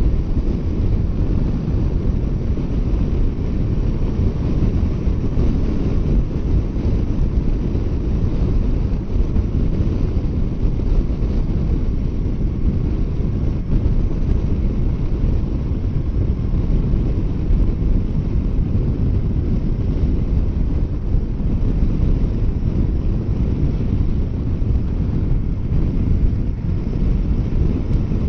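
Wind rushing and buffeting over a motorcycle rider's microphone at highway speed, a steady low rumble with the bike's running noise underneath.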